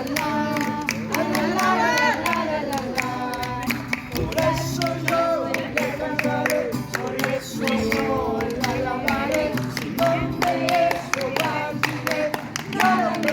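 A song with voices singing over guitar, and hand clapping.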